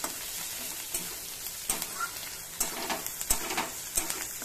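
Chopped onions, garlic, ginger paste and green chillies sizzling in oil in a metal kadai, stirred with a metal spatula that scrapes and clicks against the pan many times.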